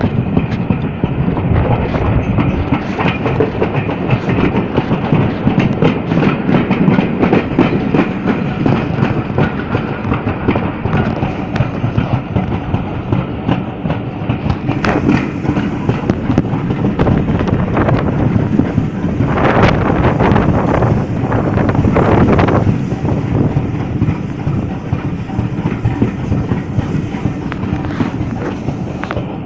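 A train rolling along the track: a steady rumble with wheels clicking over rail joints, and a few louder rushing surges about two-thirds of the way through.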